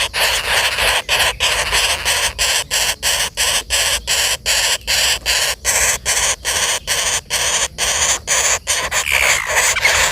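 Common flameback woodpeckers giving harsh, rasping calls over and over in a steady rhythm, about three a second.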